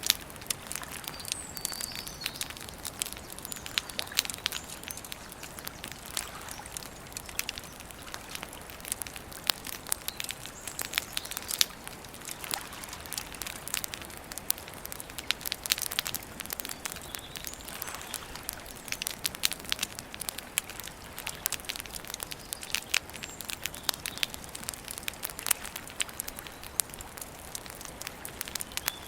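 Campfire crackling and popping: a dense, irregular run of sharp snaps with a few faint bird chirps now and then.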